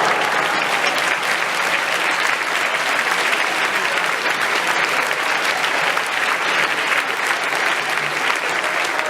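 A school assembly audience of pupils applauding steadily, a dense, even clatter of many hands clapping.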